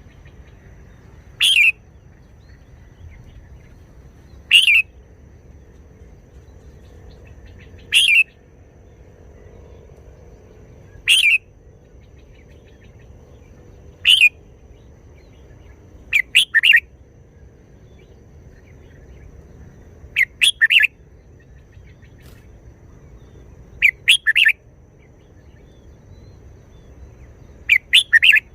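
Red-whiskered bulbul singing short phrases about every three seconds. The first few are single brief notes; from about the middle on, each phrase is two or three quick notes.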